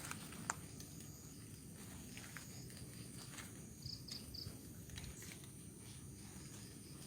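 Quiet night ambience of crickets and insects chirping steadily in the background, with a few soft clicks and three short high chirps about four seconds in.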